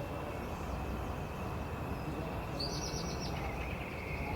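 Steady low background rumble with a short burst of small-bird chirping about two and a half seconds in.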